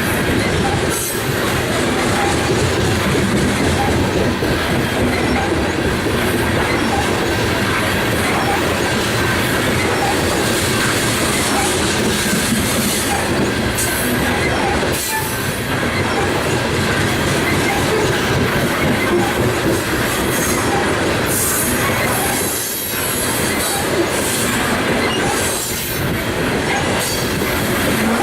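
Coal gondola cars of a freight train rolling past close by: a steady, loud rumble and clatter of steel wheels on rail, with short dips in level now and then.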